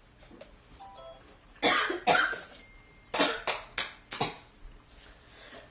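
A person in a coughing fit: about six hard coughs in quick succession, starting about a second and a half in.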